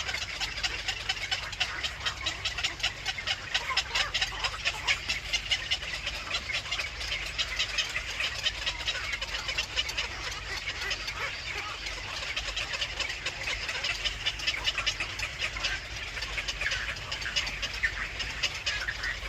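A steady chorus of rapid, high chirping calls, many a second, from small animals.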